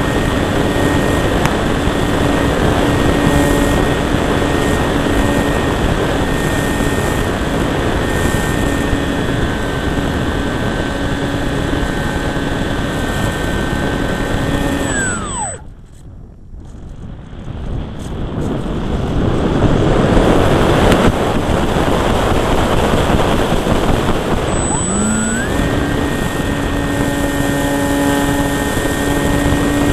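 Electric motor and propeller of a Durafly Cessna 182 RC model plane, recorded right at the cowl: a steady high whine at full throttle over heavy wind rush. About halfway through, the throttle is cut and the whine winds down to nothing, leaving only wind noise that swells again. Some ten seconds later the motor spools back up to full power.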